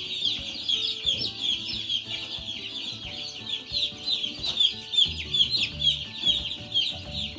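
A large flock of day-old Cornish Cross broiler chicks peeping nonstop: a dense stream of overlapping, short, high, falling peeps.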